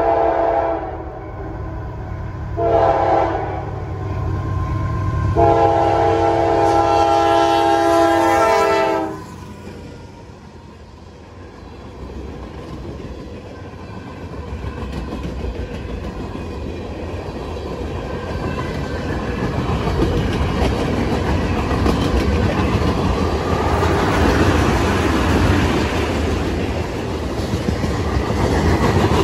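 Freight locomotive air horn sounding for the grade crossing: the end of one blast, a short blast about three seconds in, then a long blast that cuts off around nine seconds. The freight cars then roll past, wheels clacking over the rail joints, growing louder toward the end.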